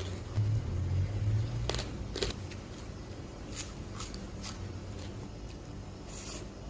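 A person chewing a mouthful of seafood papaya salad, with a few sharp crunching and mouth-clicking sounds scattered through the chewing.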